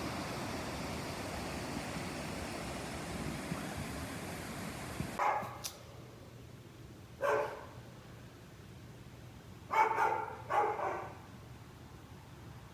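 Steady rushing noise that stops suddenly about five seconds in, then a dog barks four times, the last two in quick succession.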